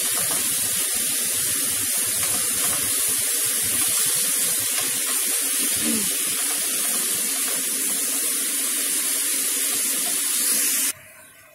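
Minced beef and diced onions sizzling steadily as they fry in a pan, with a wooden spoon stirring and scraping through them. The hiss cuts off suddenly near the end.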